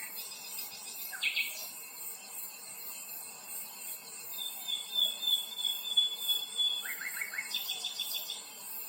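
An insect chorus buzzing steadily in high, even pulses, with birds calling over it. There is a short burst of calls about a second in, a long high trilled note from about four to nearly seven seconds, and a quick run of chirps near the end.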